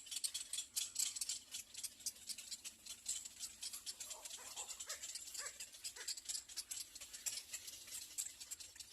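Little egret chicks in the nest calling for food: a dense stream of rapid high ticking calls, with a few short, lower whining notes around the middle.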